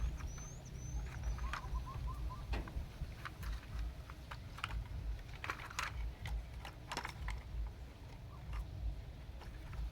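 Birds calling: a wavering high whistle in the first two seconds, then a short run of quick repeated notes, over a steady low rumble with scattered sharp clicks.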